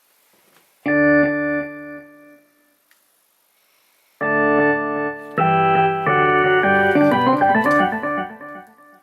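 Electric-piano-like keyboard tones: a chord sounds about a second in and dies away, then after a pause a longer passage of chords turns into a run of notes climbing upward before fading out.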